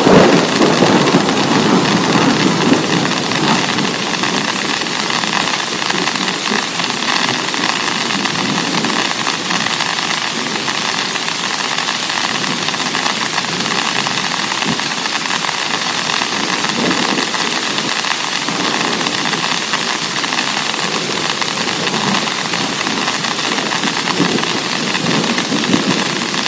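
Heavy rain pouring in a steady hiss, with a stronger low rumble in the first couple of seconds.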